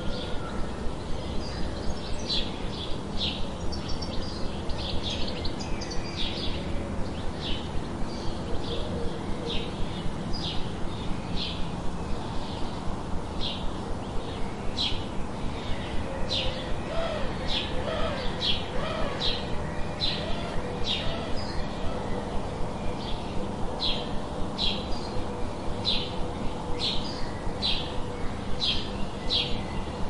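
A bird calling over and over with short high chirps, about two a second, keeping on steadily, over low steady background noise.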